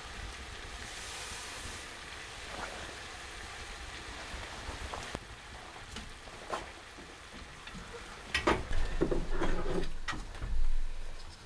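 Steady rushing noise of a strong wind, with a few faint ticks. About eight seconds in, a run of louder knocks and clatters begins as something is handled close by.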